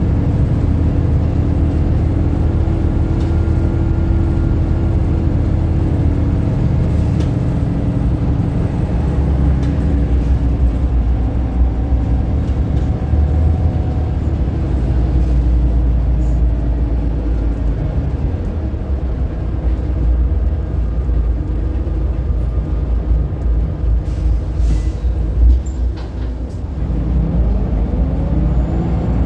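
Scania L94UB bus's diesel engine running steadily under way, a continuous low rumble; near the end it dips briefly, then climbs in pitch as the bus accelerates.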